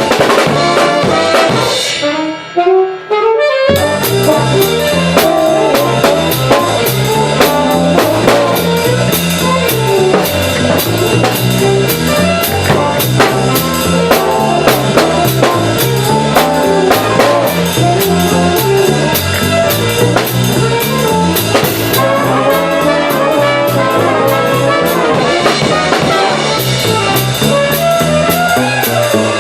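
Jazz big band playing a swing chart: brass section and drum kit over an upright acoustic bass. About two seconds in, the band breaks for a short rising run of notes, then the full band comes back in.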